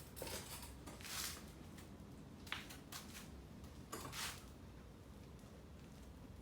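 A few short scuffing and rustling handling noises with one sharp click, over a low steady background hum; no engine is running.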